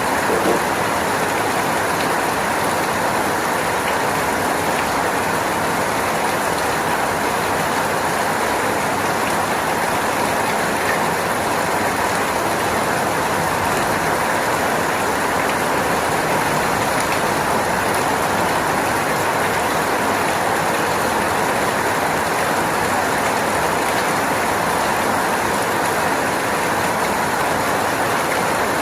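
Steady, unbroken rain, an even hiss with no changes in strength.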